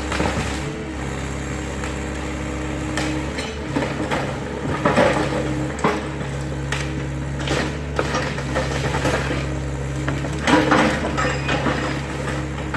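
Excavator engine running steadily while the machine tears down a garage, with irregular crunching, cracking and clattering of breaking debris; the loudest crashes come about five and ten and a half seconds in.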